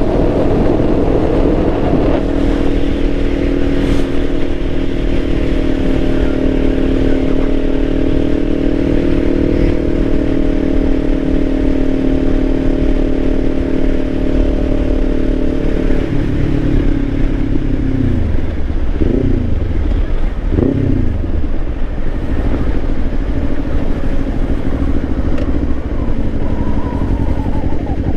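Kawasaki Ninja 500 parallel-twin engine running at a steady pitch while the motorcycle cruises, heard over wind noise. About halfway through the pitch drops, with a few quick falls and rises as the revs change, then settles to a lower steady note.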